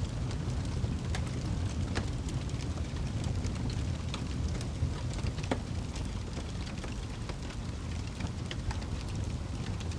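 Wood fire burning in a fireplace: a steady low rumble of the flames with frequent small crackles and pops scattered through, a few sharper pops standing out.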